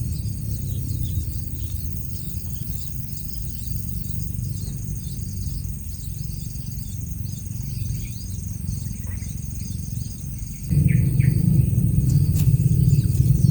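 Birds chirping rapidly in many short high calls, over a steady thin high tone and a low rumble. About eleven seconds in, a louder low sound comes in.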